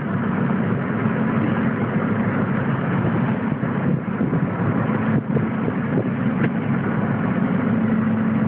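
Steady vehicle engine and road noise heard from inside the cab, with a constant low hum.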